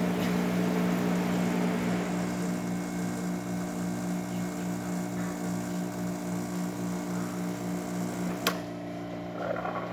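Rancilio Silvia espresso machine's vibratory pump buzzing steadily as it pulls a shot of espresso, then switched off with a click about eight and a half seconds in.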